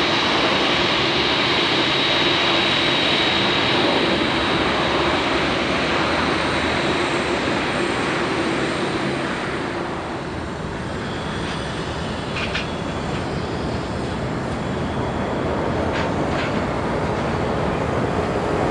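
Jet airliner engines: a loud, steady rushing noise with a high fan whine that fades out in the first half. The noise eases slightly about ten seconds in, then builds again.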